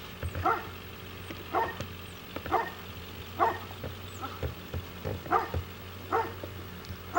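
A dog barking repeatedly, about once a second, over a steady low hum.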